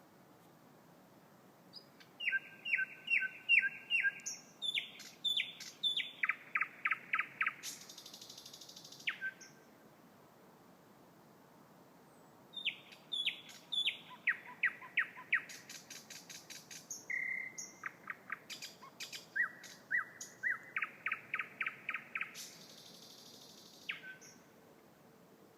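Thrush nightingale singing two long song phrases. Each is built of fast runs of repeated whistled and clicking notes that jump between pitches, with a dry rattle near the end of the first phrase and again late in the second.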